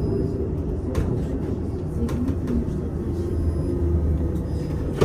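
Cabin noise of a VMZ Avangard trolleybus on the move: a steady low rumble with short humming tones coming and going, and a sharp knock about a second in and another at the end.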